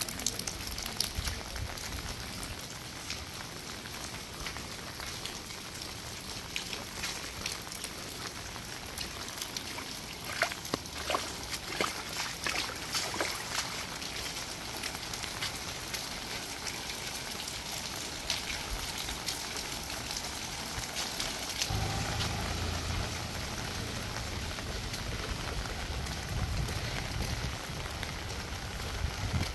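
Steady rain falling, with many small drop ticks close by. A low rumble joins about three-quarters of the way through.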